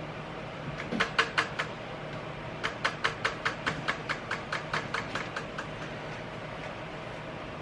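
A few sharp clicks, then a longer run of evenly spaced clicks, about five a second, that grow fainter and stop, over a steady low hum.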